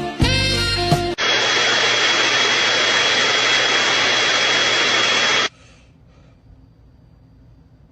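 A loud, steady rush of air with a thin high whine, like an electric motor blowing air, that starts suddenly about a second in and cuts off after about four seconds. It is preceded by the end of a music track.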